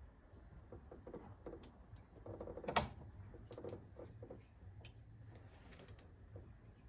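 Light metallic clicks and ticks of hand tools and metal parts being worked on the engine's timing components, with one sharper click about three seconds in.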